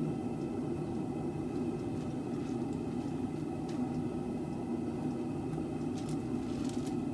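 Steady machine hum, even in level, with a few faint clicks about four and six seconds in.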